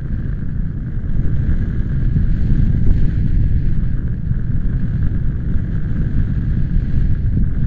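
Strong wind buffeting the microphone: a loud, steady low rumble that grows a little about a second in.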